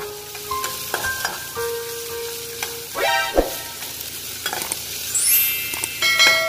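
Sliced onion, garlic and ginger sizzling in a little oil in a small pan, stirred with a metal spatula that scrapes and clicks against the pan. A few short electronic chimes and a rising sweep sound near the end.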